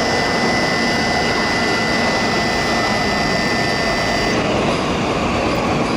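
A 10-car JR East E5 series Shinkansen rolling slowly into a platform, with a steady high-pitched whine over the running noise that cuts off about four seconds in.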